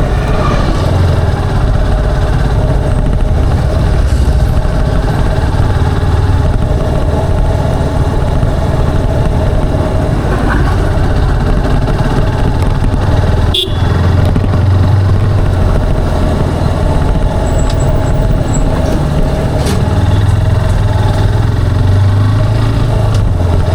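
Motorcycle engine and exhaust running steadily under way, with a low even hum throughout. A single sharp click comes about halfway through.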